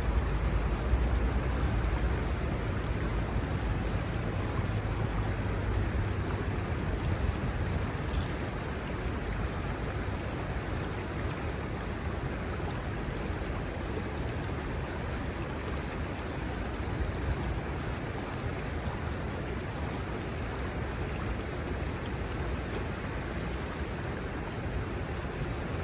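Shallow river water running steadily over its bed, a continuous rushing. A low rumble under it eases off about a third of the way in, and a few faint short high chirps come through now and then.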